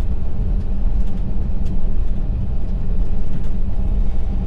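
Tractor-trailer's engine and road noise rumbling steadily inside the cab as the truck drives on.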